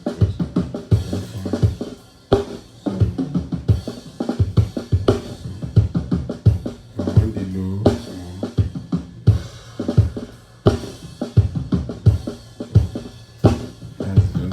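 Recorded drum kit played back from multitrack stems: kick, snare and hi-hat in a steady groove.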